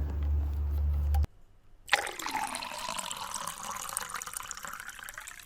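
A low rumble cuts off about a second in; after a short pause, liquid begins pouring abruptly and runs steadily. This is plausibly fresh motor oil being poured from a jug into the engine's oil filler during the oil change.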